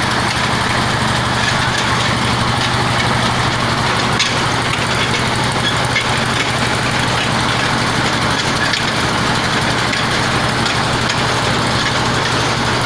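Electric-motor-driven groundwater drilling rig running steadily: a constant hum with a couple of brief knocks about four and six seconds in.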